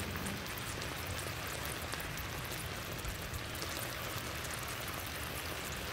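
Chicken drumsticks frying in hot oil in a frying pan: a steady, dense sizzle with fine crackling.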